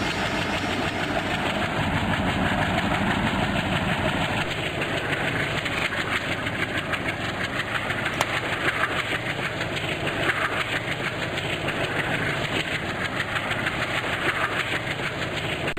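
Diesel-hauled passenger train running, with a steady mix of engine and wheel-on-rail noise.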